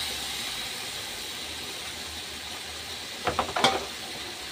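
Boiled yellow beans frying in hot oil and spices in an aluminium pot, a steady sizzling hiss. A quick cluster of sharp clicks and knocks about three seconds in.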